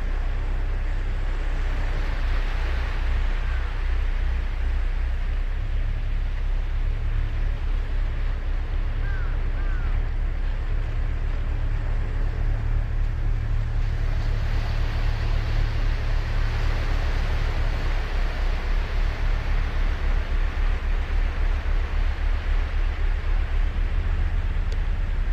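Surf washing onto a sandy beach in a steady rush, with wind buffeting the microphone as a low fluttering rumble that pulses faster near the end. A few faint short chirps come through about three and nine seconds in.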